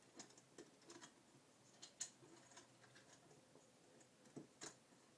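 Faint, irregular clicks and light taps of small metal parts being handled: angle brackets fitted with T-nuts being slid into the slots of aluminum extrusion. A sharper click comes about two seconds in and two more near the end.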